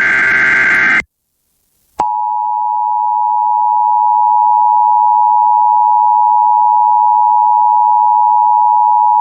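Emergency Alert System broadcast: the tail of a SAME digital header burst, a harsh warbling data screech, ends about a second in; after a second of silence the EAS two-tone attention signal (853 and 960 Hz sounded together) starts and holds steady as a loud sustained tone.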